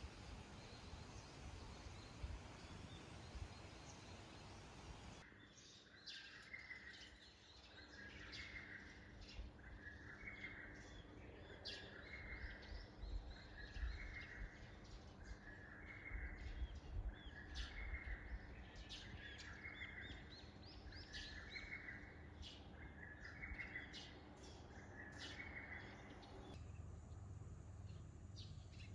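Faint background noise for the first few seconds, then birds calling: one bird repeats a short call about every second and a half while sharp high chirps come between, until the sound changes back to plain background noise near the end.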